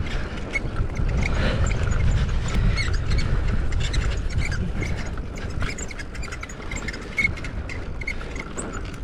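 Mountain bike rolling fast down a dirt trail, heard from a GoPro on the rider: a steady low rumble of wind and tyres with many small rattling clicks from the bike over bumps, easing a little after the middle.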